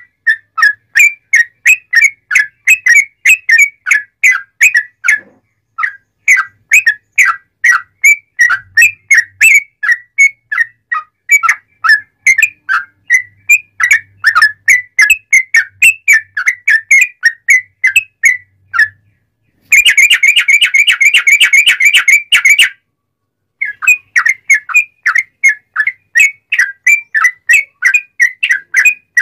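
Yellow-vented bulbul (trucukan) singing loudly and continuously: a long run of quick, clear whistled notes, breaking into a faster, denser trill about two-thirds through, followed by a brief pause before the note run resumes.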